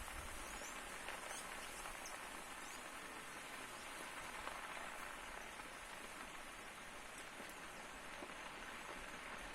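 Large forest fire burning, a steady dense crackle of burning vegetation, with a few faint high chirps over it.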